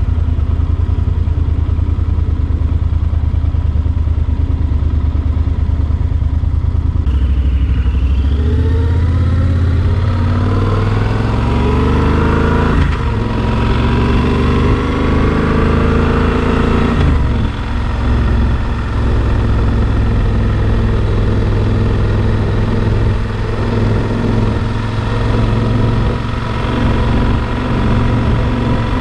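Yamaha Super Ténéré XT1200 motorcycle's parallel-twin engine running steadily, then accelerating: its pitch climbs through the gears with two shifts, and it settles into a steady cruise.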